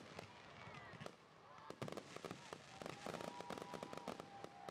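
Distant fireworks crackling and popping in quick, irregular succession. There are many small sharp reports rather than single big booms.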